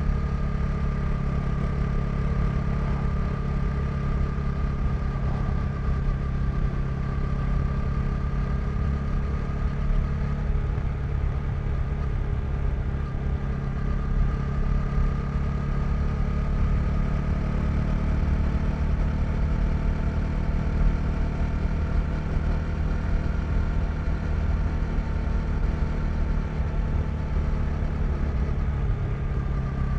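KTM 390 Duke's single-cylinder engine running at a steady cruising speed, its pitch holding nearly level with only slow, gentle changes, over a low rumble of wind and road noise.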